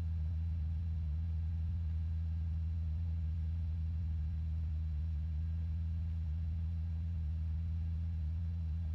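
Steady low hum in the police helicopter's audio feed, unchanging throughout.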